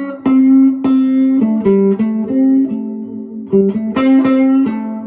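Guitar playing a minor pentatonic blues phrase of about a dozen picked notes, some held, with the minor third bent less than a half step so that it sits between the minor and major third.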